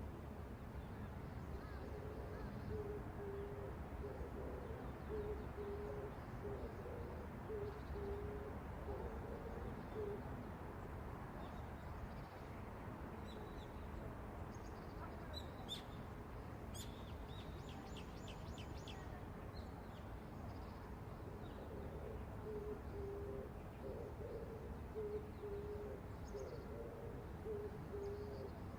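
A bird calling in a series of low hooting or cooing notes, in runs through the first third and again near the end, over a steady low rumble. A few high chirps and a quick trill from a small bird come midway.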